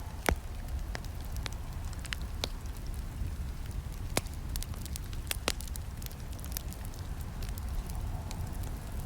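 Campfire crackling: irregular sharp snaps and pops over a steady low rumble of burning, the loudest snap just after the start.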